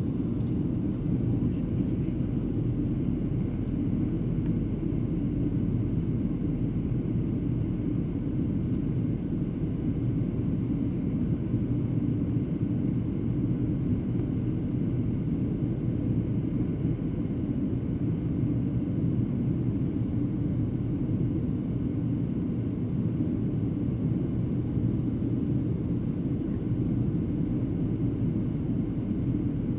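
Airliner cabin noise in flight, heard from a passenger seat: the steady, low drone of the jet engines and airflow.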